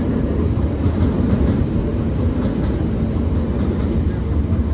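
Steady low rumble of a train running slowly, heard from on board as it passes through steel truss girders.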